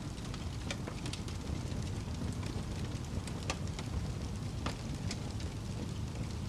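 Wood fire burning in a fireplace: a steady low rumble of flames with scattered sharp crackles and pops at irregular intervals.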